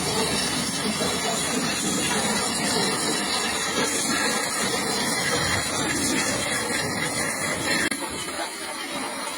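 High-pressure washer spraying water on the truck: a steady hiss of the jet that eases slightly about eight seconds in.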